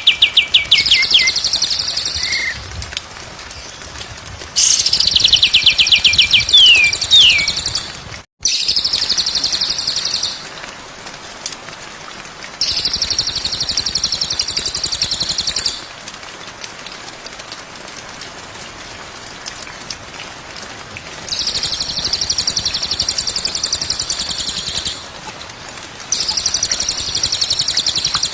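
A songbird sings very high, fast, buzzy trills in bursts of about two to three seconds, about six times, with short pauses between, as in a looped birdsong recording for training cage birds. The first burst starts with a rapid run of lower notes.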